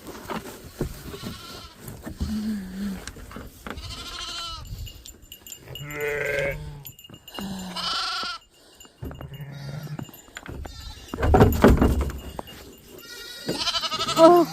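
Sheep and lambs bleating, several separate wavering calls from different animals. A loud rustling noise about eleven seconds in is the loudest sound.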